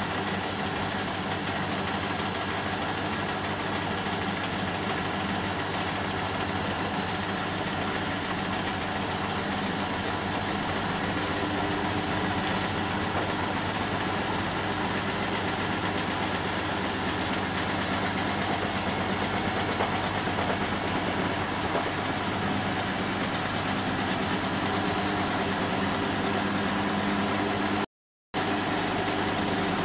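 Bosch washing machine running a synthetics 40 °C wash cycle: a steady machine hum with a constant noise. The sound cuts out completely for a moment near the end.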